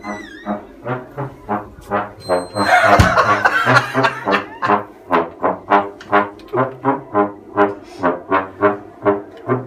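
Brass instruments, trombone and trumpet among them, playing a run of short repeated notes at about three a second as the band warms up. About three seconds in, a loud burst of noise with a sharp knock sounds over the notes.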